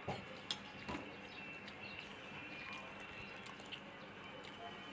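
Soft mouth sounds of someone chewing a mouthful of rice, a few faint smacks and clicks, over a low steady background.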